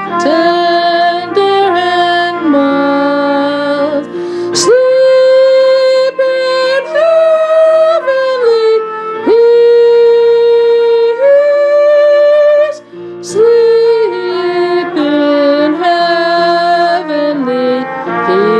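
A woman singing a Christmas carol in long held notes over a steady instrumental accompaniment.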